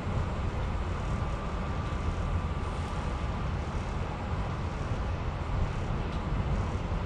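Steady running rumble inside a moving commuter train car, with a faint steady whine that comes and goes.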